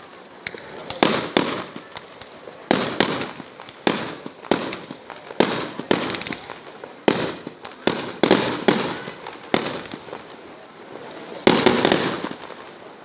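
Fireworks exploding: a string of sharp bangs, each trailing off in a rumbling echo, roughly one every half second to a second, with a loud quick cluster of several bangs near the end.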